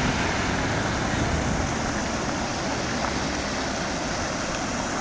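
Steady city street noise: traffic rumble mixed with the rushing of a fountain's water. The low rumble is heavier for the first second or so, then eases.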